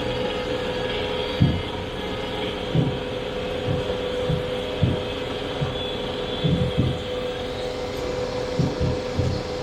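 Boat engine running at a steady drone, with irregular low thuds about once a second.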